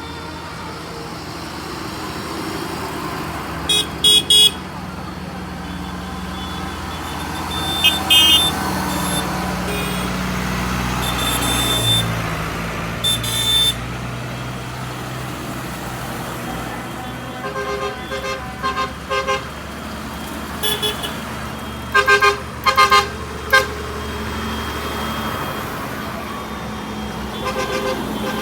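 Tractor engines running as they pass by, with short horn toots sounding over them again and again, often two or three quick toots in a row.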